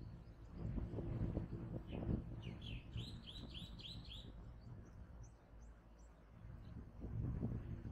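A bird calling a quick run of about seven chirps, starting a little over two seconds in, over a low rumble with soft knocks.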